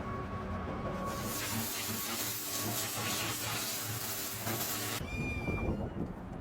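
A loud, steady hiss starts about a second in and cuts off suddenly about five seconds in, followed by a short high tone.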